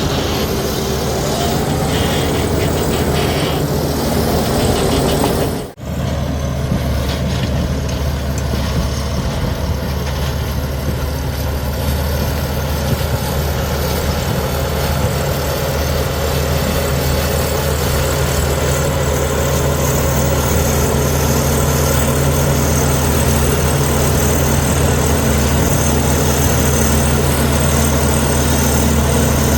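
Heavy earthmoving machine's diesel engine running steadily, with a brief dropout in the sound about six seconds in.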